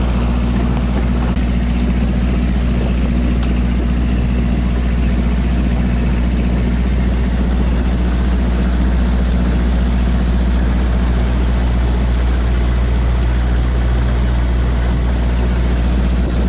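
Boat engine running steadily at constant speed, a low, even drone heard from on board.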